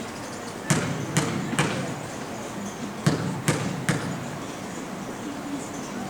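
Basketball being dribbled on a gym floor: two runs of three bounces, each about half a second apart, over faint background voices.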